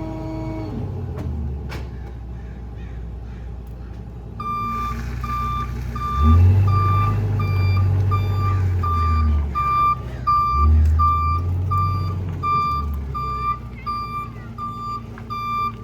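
Back-up alarm of a small rear-load garbage truck, a Ford F-550 with a New Way Diamondback body, beeping steadily about once a second from about four seconds in. Under the beeping the truck's engine revs up twice.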